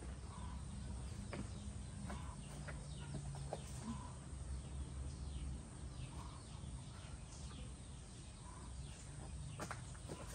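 Chickens clucking softly now and then, over a steady low rumble.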